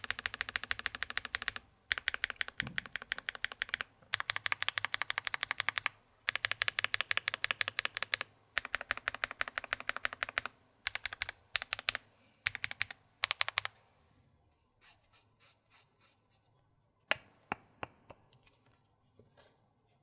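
Angry Miao AFA mechanical keyboard, with an FR4 plate and gasket mounting, being typed on quickly in bursts of rapid keystrokes with short pauses between. After about two-thirds of the way through, only a few scattered single keystrokes remain.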